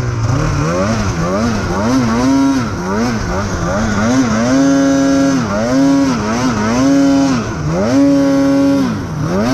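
Polaris 9R snowmobile's two-stroke engine revving up and down again and again in short throttle bursts, then held at high revs for about a second at a time, three times in the second half, as the rider powers the sled around in a re-entry turn and lets off.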